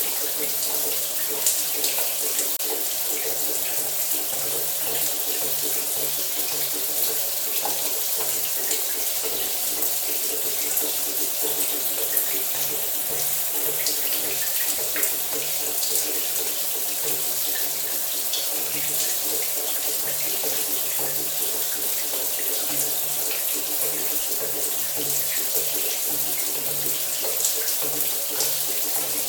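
Shower water running steadily, spray spattering with many small drop ticks in a dense hiss, and a faint steady hum underneath.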